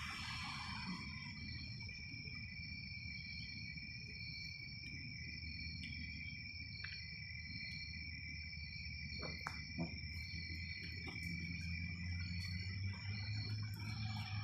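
Crickets chirping: one steady high trill with a second, pulsing trill above it, over a low rumble and a few faint clicks.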